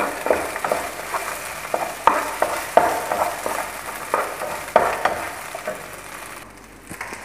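Chicken pieces frying and sizzling in a frying pan, stirred with a wooden spatula that scrapes and knocks against the pan in irregular strokes. The sizzle fades near the end.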